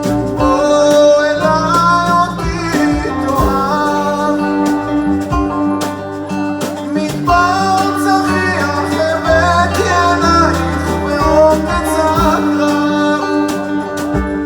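A song sung with guitar accompaniment: a voice carries a gliding melody over steadily plucked and strummed strings.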